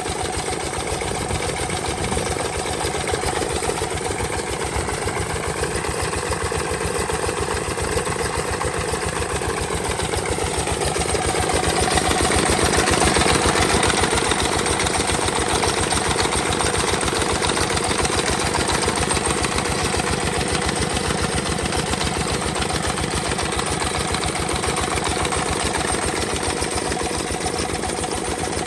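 Old S1100NL single-cylinder diesel engine running steadily with a rapid, even chugging of firing knocks. A higher whine falls in pitch about ten seconds in, and the engine gets briefly louder soon after.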